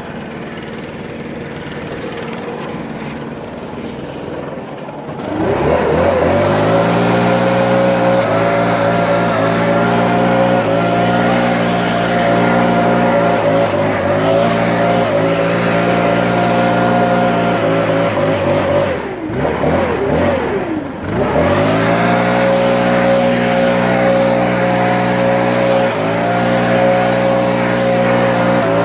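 A commercial lawn mower's engine throttles up about five seconds in and runs at high speed. Its pitch sags briefly every second or two under load, and drops and comes back up twice near the middle.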